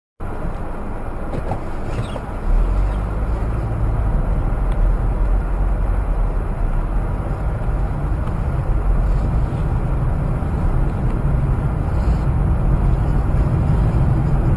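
Steady road and engine noise of a moving car, with a deep rumble that grows heavier about two and a half seconds in.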